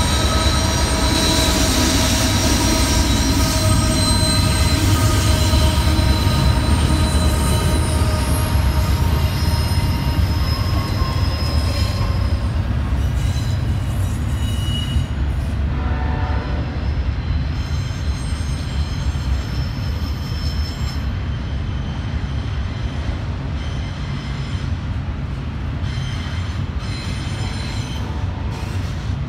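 CSX double-stack container train rolling by, a steady heavy rumble of wheels on rail with high ringing wheel squeal over it. The squeal dies away about halfway through while the rumble carries on.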